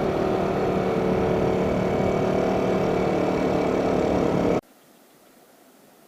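Yamaha Jupiter Z motorcycle's single-cylinder four-stroke engine running steadily on the move, over a steady rush of noise. It cuts off abruptly a little over four and a half seconds in, leaving only a faint hiss.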